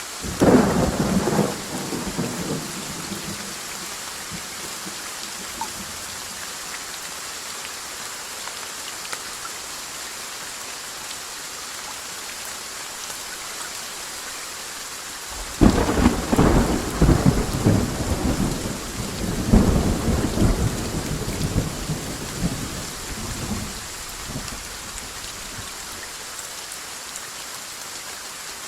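Steady rain falling, with a short thunderclap right at the start and a longer peal of rolling thunder from about halfway through that rumbles on for several seconds before fading back into the rain.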